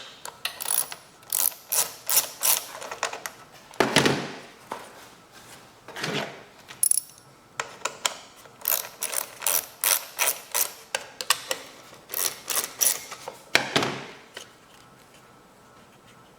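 Ratchet wrench clicking in quick runs of strokes as a bolt is turned, with a few louder metallic knocks in between. The clicking stops about two seconds before the end.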